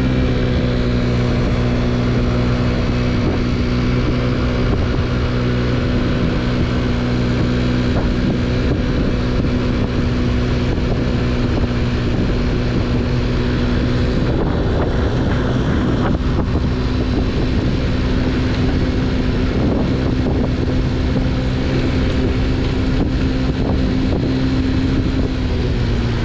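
50cc scooter engine running at a steady cruising speed, with wind buffeting the microphone. The engine note drops slightly near the end as the scooter eases off.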